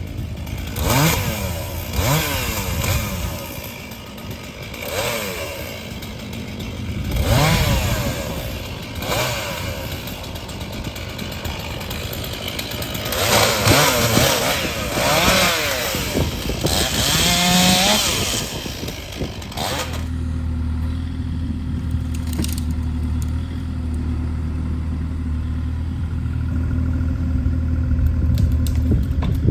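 Two-stroke Stihl chainsaw revving up and down in repeated bursts as it cuts wood. About two-thirds of the way through this gives way abruptly to a steady low engine idle, the Kubota KX040 mini excavator's diesel.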